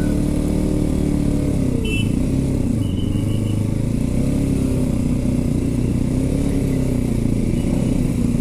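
Motorcycle engine running under way, its note dropping about two seconds in as it eases off, then holding steady with a slight rise and fall.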